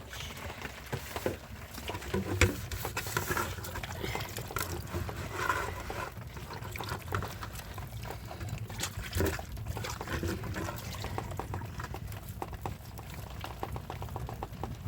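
Water sounds: many small irregular drips and clicks of liquid over a steady low hum.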